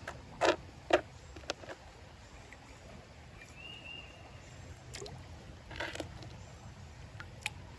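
Creek gravel and water sloshing in a gold pan, with stones knocking or splashing in it several times.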